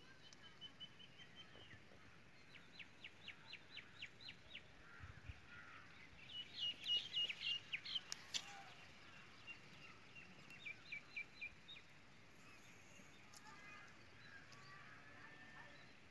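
Birds chirping: runs of short, high notes repeated several times a second, coming and going, loudest about seven seconds in.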